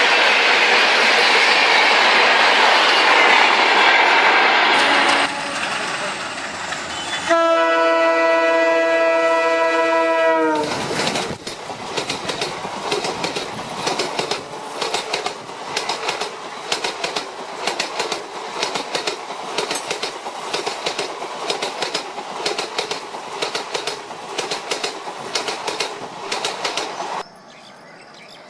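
Train sounds: the loud rush of a train running past, then one long locomotive horn blast of about three seconds, then a steady, even clickety-clack of wheels over rail joints that cuts off suddenly near the end.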